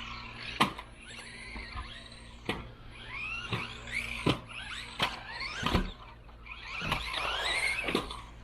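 Radio-controlled Losi Mini-B buggy's brushless electric motor whining up and down in pitch as it accelerates and slows, with several sharp knocks along the way.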